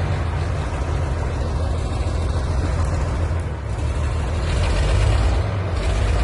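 Heavy tractor diesel engine running steadily, getting louder about four and a half seconds in.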